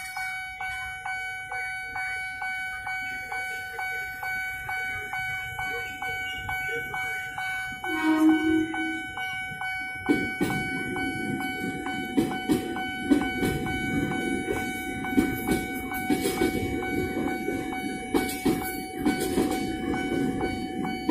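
Level-crossing warning bell chiming in a steady, regular pulse, about two and a half strikes a second. About eight seconds in, the electric commuter train sounds one horn blast lasting just over a second. From about ten seconds the train runs over the crossing, a loud rumble of wheels on rails with knocks, while the bell keeps chiming.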